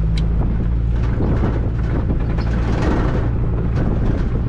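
Car engine running steadily under a low hum, with road and wind noise.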